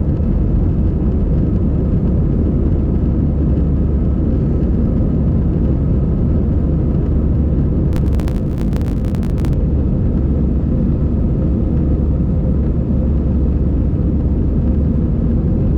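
Steady low rumble of an Airbus A320's engines and airflow heard inside the passenger cabin, with a short run of rapid clicks about eight seconds in.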